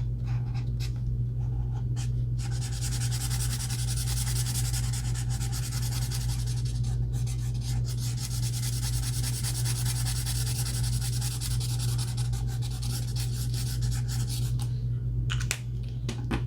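Alcohol marker tip rubbing back and forth on paper, colouring in a larger area. The rubbing starts about two seconds in, breaks briefly near the middle and stops shortly before the end, over a steady low hum.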